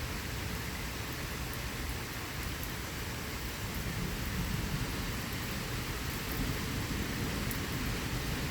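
Steady rain falling in a thunderstorm, with a low rumble of thunder underneath that swells a little in the second half.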